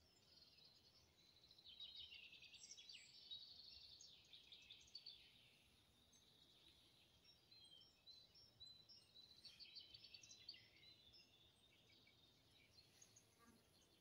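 Faint songbird song: quick trilled phrases and chirps, strongest about two to five seconds in and again around ten seconds in.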